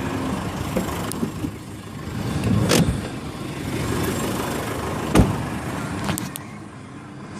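Split rear seat backs of an SUV being folded down: a scrape and a thump, then a louder thump about five seconds in, followed by a couple of small latch clicks, over steady background noise.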